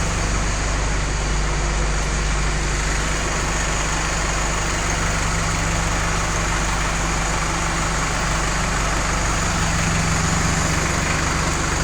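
Vehicle engine idling steadily, a low even hum with no revving.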